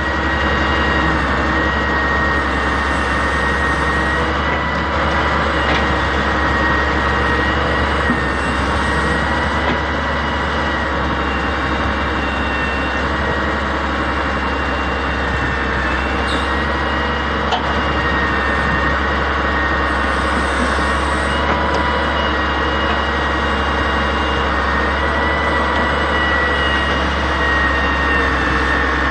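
Excavator working: its diesel engine runs steadily under load with a high, slightly wavering whine from the hydraulics.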